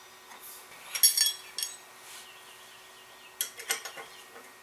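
Metal clinking as a router bit is fitted into the router's collet with the steel collet wrenches: a cluster of sharp, ringing clinks about a second in, and another near the end.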